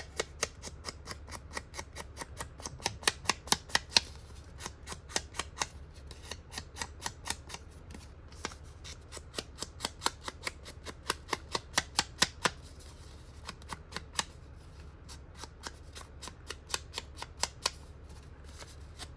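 Ink pad tapped quickly and lightly against the edges of paper, inking it up: sharp clicks about four or five a second, in runs with short breaks.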